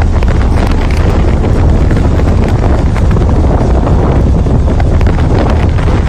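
Strong dust-storm wind blasting across the microphone: a loud, steady rush with a heavy low rumble from the buffeting.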